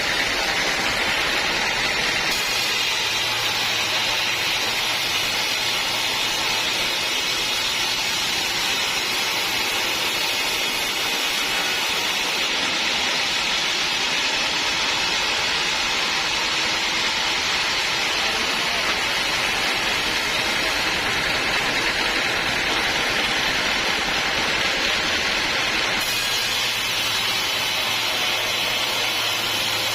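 Sawmill saw running with a steady, hissing noise, its tone shifting slightly a couple of times.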